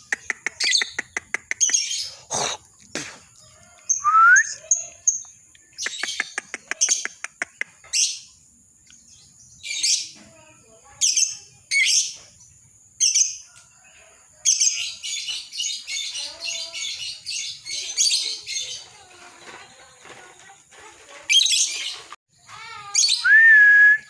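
Lovebird chattering. It gives rapid clicking trills, sharp separate chirps, and a dense run of continuous chatter a little past the middle, with short rising whistled notes near the start and the end.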